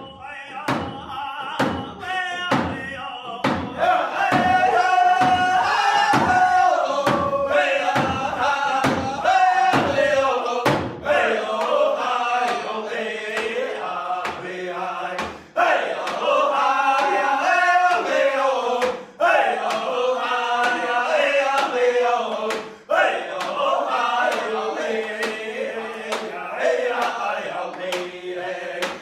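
A Native American drum group: a drum struck in a steady beat about twice a second while several voices sing a chant together over it.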